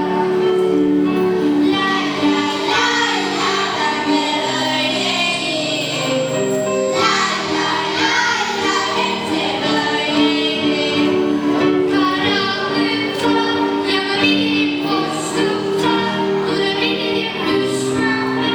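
A children's choir singing a Turkish song in harmony over held instrumental notes.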